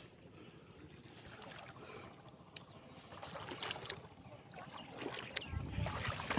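Faint sloshing and splashing of shallow floodwater in a flooded rice paddy, with a few soft splashes after about three seconds. Low wind rumble on the microphone comes in near the end.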